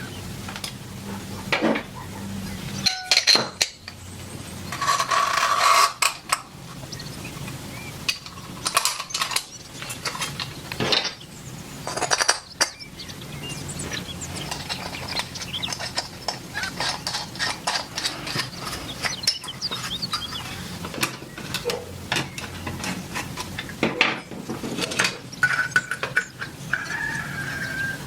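Metal parts clinking and knocking as they are handled and worked by hand: many short, sharp impacts, with a few brief ringing tones.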